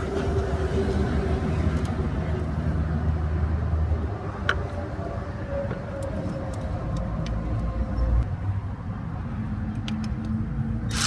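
Steady low rumble of a running motor vehicle engine, easing off a little about four seconds in, with a few light clicks.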